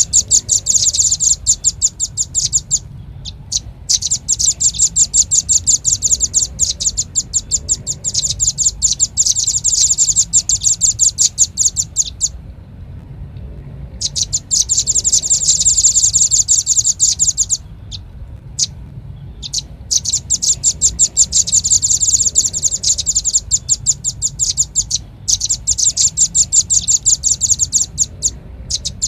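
Velvet-fronted nuthatch (red-billed nuthatch) calling: rapid runs of high, sharp chipping notes, many per second, lasting several seconds each with short pauses between them. It is a looped lure call.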